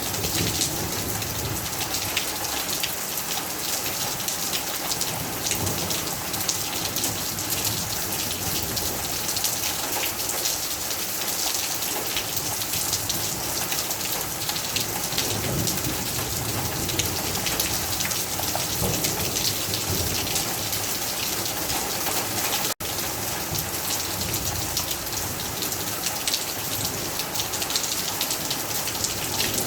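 Heavy rain falling steadily, a dense patter of drops on surfaces; the sound cuts out for an instant about 23 seconds in.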